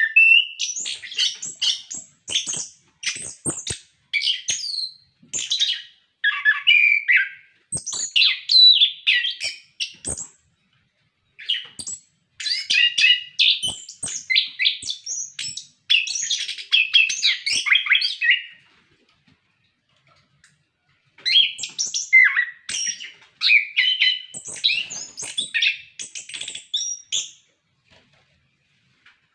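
Orange-headed thrush singing a long, rapid, varied song of chirps and warbled phrases in bouts, breaking off twice for a second or two, about two-thirds of the way in and near the end.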